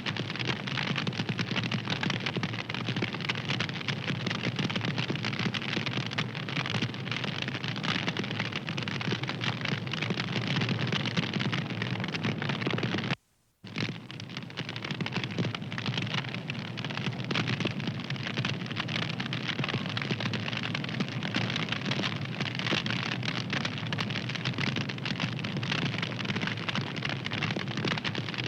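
Fire crackling: a dense, steady run of small pops and snaps over a hiss. It cuts out to silence for about half a second roughly halfway through, then carries on.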